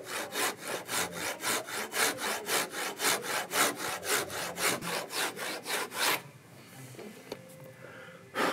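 Handsaw cutting along the closed seam of a clamped oak scarf joint, kerfing it so the two halves close up for a tighter fit. The quick, even strokes come about four a second and stop about six seconds in, and a short knock follows near the end.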